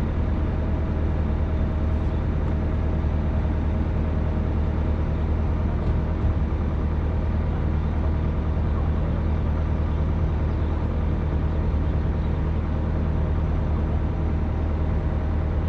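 Excavator's diesel engine running at a steady speed, a constant low hum without revving or changes in pitch.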